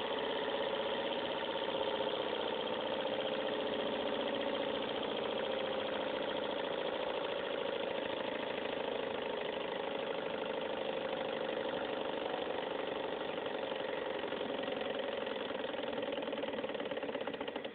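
A small model Stirling engine running at a steady speed with a fast, even mechanical rattle.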